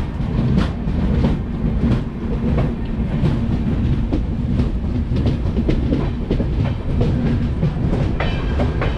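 Mandovi Express passenger train running along the track: a steady low rumble, with wheels clattering over rail joints and a constant hum underneath.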